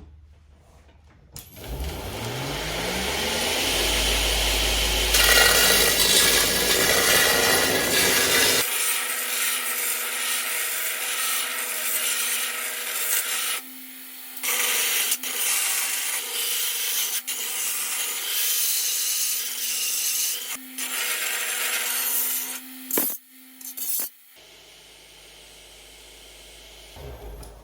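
Belt grinder starting up, its motor rising in pitch, then the abrasive belt grinding the rusted edge of a steel shovel blade square, back to clean steel, with a few short breaks. The grinding stops about 24 seconds in, leaving a faint hum.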